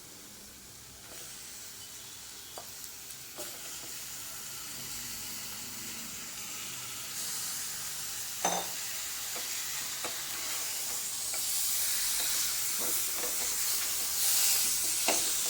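Raw chicken pieces sizzling in hot oil and masala in a pressure cooker, the sizzle growing louder as the pan heats, while a spoon stirs them with a few knocks against the pot, the loudest about halfway through.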